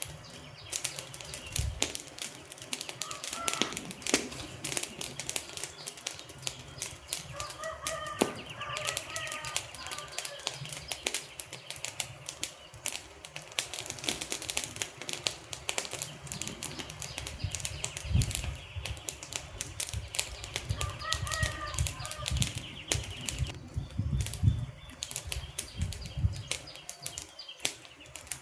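Wood fire crackling, with constant irregular pops and snaps. A few short birdcalls come through at three moments, and low soft thuds sound in the second half.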